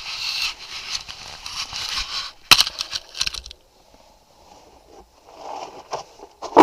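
Rustling and crunching as a broken geocache box is handled, with one sharp crack about two and a half seconds in, then quieter fumbling.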